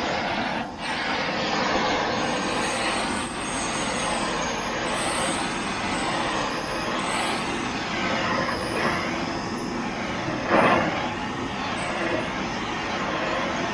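Gas torch flame burning the surface of a wooden board: a steady rushing noise, with a short dip about a second in and a brief louder surge about ten and a half seconds in.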